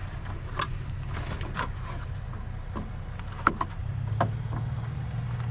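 A truck engine idling steadily, with scattered light clicks and knocks from scrap parts being handled.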